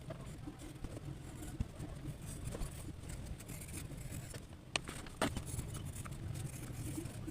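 Hand drawing on paper: a low steady rumble of table and handling noise with faint scratching, and a few sharp clicks, the loudest two half a second apart about five seconds in.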